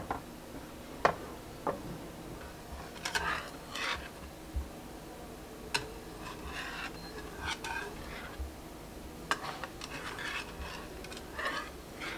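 Close-miked eating of crispy fried chicken: irregular crunching and chewing with several sharp clicks and taps.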